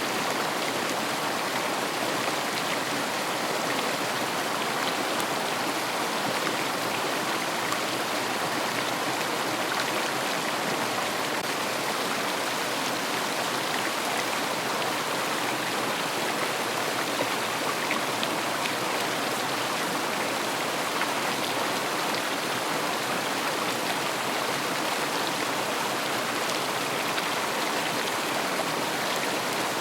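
River water flowing over stones: a steady rushing and babbling.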